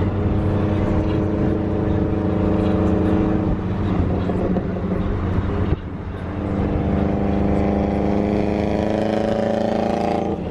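Car engine running under load, with a short dip about halfway through, after which its pitch climbs slowly as the car accelerates.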